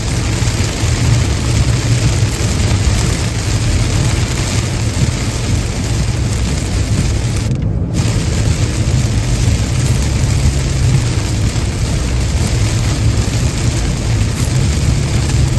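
Car driving in rain on a wet highway: a steady low road rumble under an even hiss of rain and tyre spray. The hiss drops out for a split second about halfway through.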